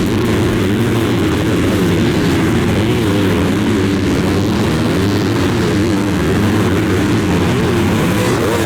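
Several motocross bikes racing, their engines revving together with pitches rising and falling as they shift and change throttle.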